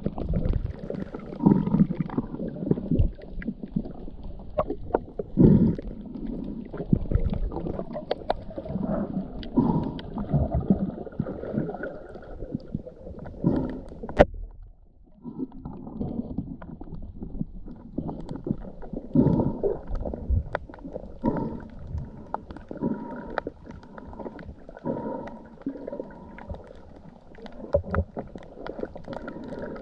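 Muffled water sounds: irregular low gurgling and rumbling swells with scattered sharp clicks, dropping away briefly about halfway through.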